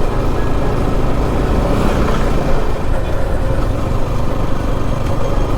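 Motorcycle being ridden on the road: a steady, unbroken rumble of engine and riding noise.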